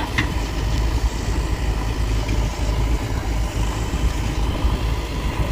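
Tractor diesel engine running steadily with a low rumble while pulling a loaded trolley.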